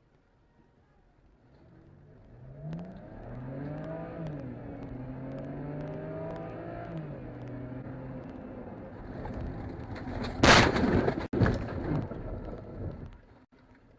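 A car engine running, its pitch rising and then falling, followed about ten seconds in by a loud crash of a collision and a few more bangs before the sound cuts off.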